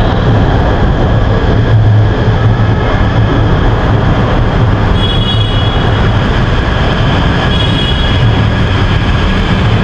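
Namo Bharat RapidX electric train running through the station: a loud, steady rumble with a low hum, and thin high whines that come and go.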